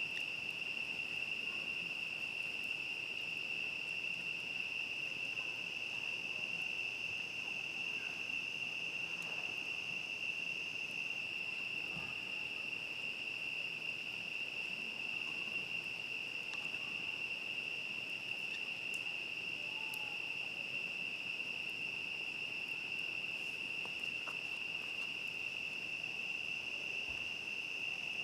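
Chorus of crickets, a continuous high-pitched trill that holds steady throughout, with a few faint scattered clicks.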